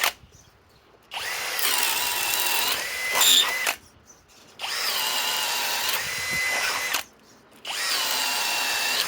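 Master Force Boost brushless cordless drill driver boring into wood with a spade bit: three runs of motor whine, each spinning up and then holding for two to three seconds, with short pauses between.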